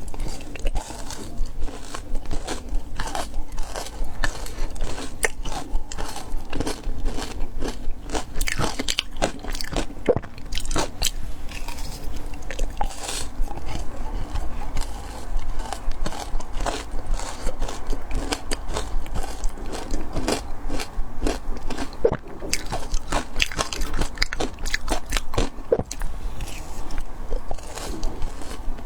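Close-up chewing and crunching of frozen matcha ice: continuous, irregular sharp crunches as the ice is bitten and ground between the teeth.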